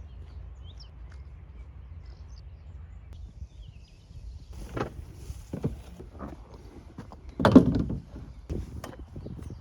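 A series of knocks and thumps from gear being handled, several separate strokes, the loudest about seven and a half seconds in.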